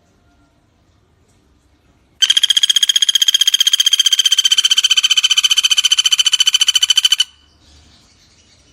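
Pelatuk bawang woodpecker giving a loud, fast, even rattling trill that starts about two seconds in and stops abruptly about five seconds later.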